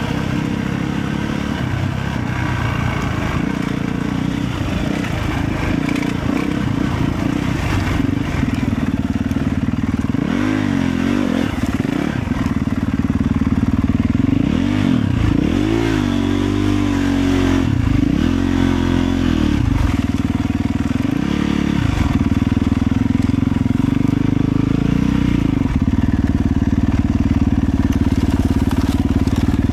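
Motorcycle engine running on the move. Its revs rise and fall several times, about a third of the way in and again toward the middle.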